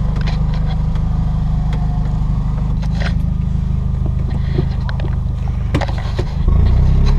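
Straight-piped exhaust of an R53 Mini Cooper S's supercharged 1.6-litre four-cylinder engine, its muffler deleted, running with a steady low drone under sharp scattered clicks; it grows louder about six and a half seconds in.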